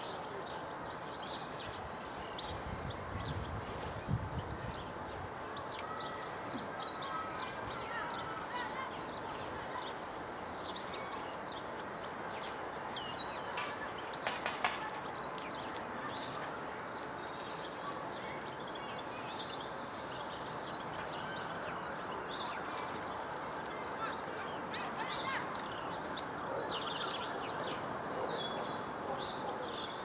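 Small birds chirping and calling repeatedly over a steady background noise, with a few brief sharp clicks.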